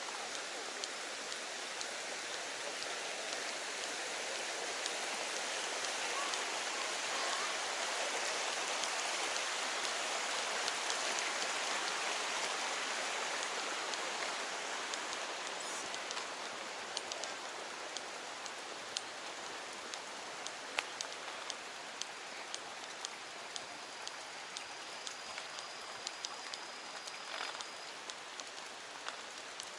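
Steady hiss of rushing water, swelling toward the middle and then easing off, with scattered sharp ticks in the second half.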